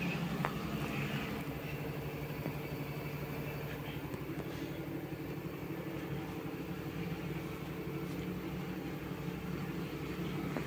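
LG F2T9GW9P front-loading washing machine with direct-drive motor running a spin-only cycle: a steady hum from the motor and spinning drum.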